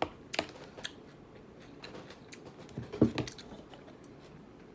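Close-up chewing of a crunchy lettuce salad, with a few short clicks in the first second and a louder brief knock about three seconds in.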